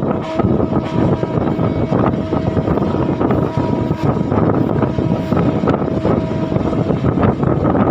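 Passenger train running at speed, heard from aboard the coach: a loud, steady rumble and rush of air, with sharp wheel clicks over the rails at irregular intervals.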